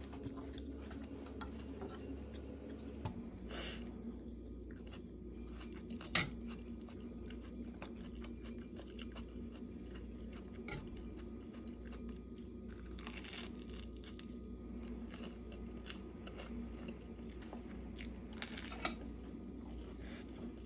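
A person chewing and crunching food, with a few short sharp crunches or clicks, over a steady low hum.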